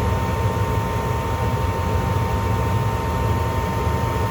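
Gas furnace's draft inducer motor running steadily, a low hum with a thin constant whine, drawing the vacuum that holds the pressure switch closed in the first step of the heating start-up sequence.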